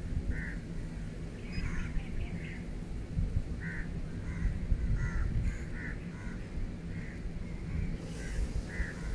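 Birds calling outdoors: a dozen or so short calls at irregular intervals, over a steady low rumble.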